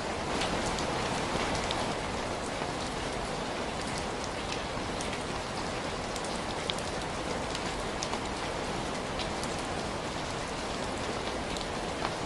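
Steady rain hissing, with scattered sharp little ticks over it.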